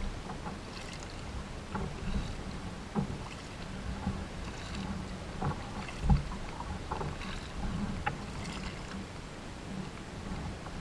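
Kayak paddling on a river: water splashing and dripping from the paddle, with irregular small knocks, the loudest about six seconds in.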